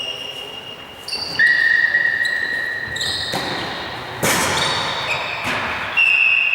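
Tchoukball play in a sports hall: the ball strikes hard several times, and each hit is followed by clear high ringing tones that hang on for a second or two, with the echo of a large hall.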